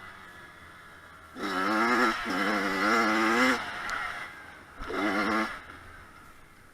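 Kawasaki KX100 two-stroke dirt bike engine revving in two spells, the first about two seconds long and the second shorter, with a wavering pitch that rises and falls with the throttle.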